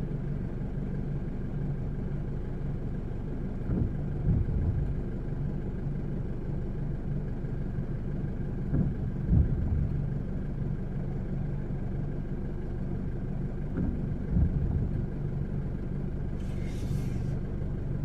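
Steady low hum of a car idling, heard from inside the cabin, with a few soft low thumps about five seconds apart.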